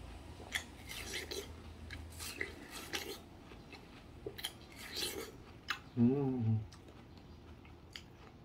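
Biting into and chewing watermelon close to the microphone: a run of short crunching clicks, with a brief hummed 'mm' from the eater about six seconds in.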